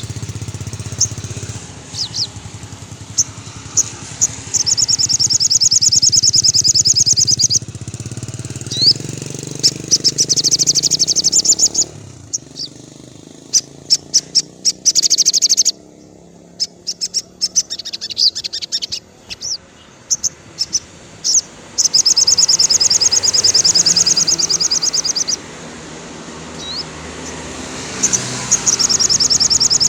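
Sogon songbird singing: rapid high trills of about three seconds each, repeated four times, with short single chirps between them.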